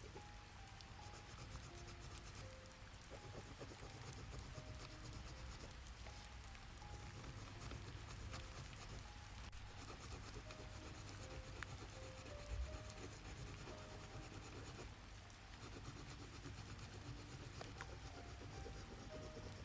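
Pen scratching across paper in runs of strokes with brief pauses between them.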